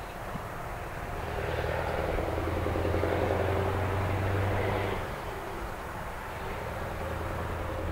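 Scania R500 truck's V8 diesel running through an open, straight exhaust pipe: a steady deep drone that swells louder for a few seconds and drops back about five seconds in.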